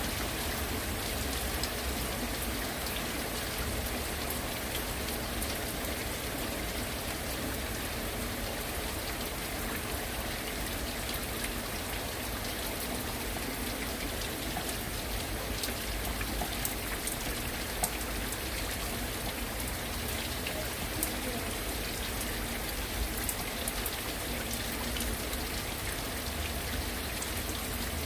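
Heavy rain falling steadily, with scattered sharper taps of single drops hitting a surface.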